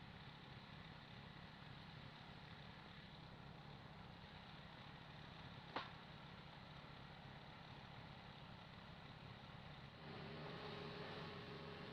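Faint engine running steadily, with a single sharp click about halfway through. Near the end it becomes a little louder, with a steady tone.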